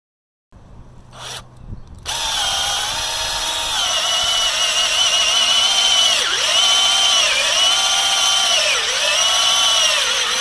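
Power drill boring a tap hole into a maple trunk: a steady motor whine that starts about two seconds in, its pitch dipping about four times as the bit loads up in the wood.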